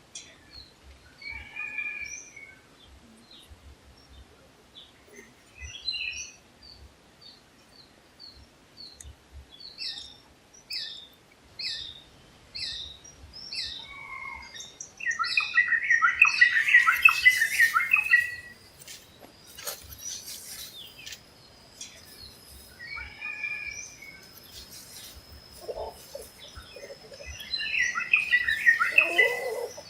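Wild birds calling in a forest: a run of short high chirps, then loud, dense twittering bursts about halfway through and again near the end, with some lower calls under the second burst. A thin, steady, high tone runs on from about two-thirds of the way in.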